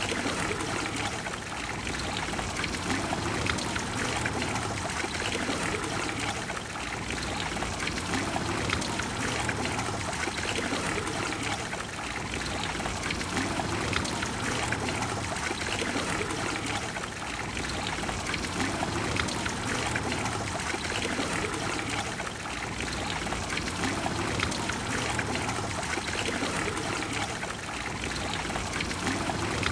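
Water of the Trevi Fountain falling and splashing into its basin in a steady, unbroken rush.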